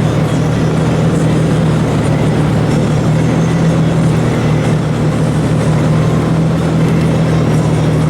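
Steady driving noise inside a moving car: the engine's even hum under a constant rush of tyre and wind noise.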